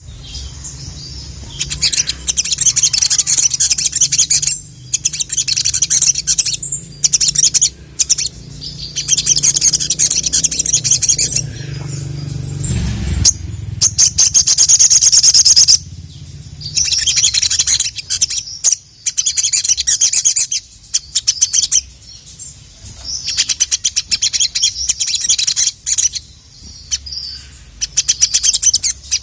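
Sogon (sogok ontong) songbird in full song, with long bursts of rapid, very high chattering trills and short pauses between them. A low hum runs underneath.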